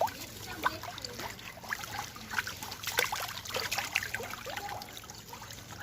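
Water trickling and splashing in many small, irregular splashes and drips, as hands and a net work in shallow water.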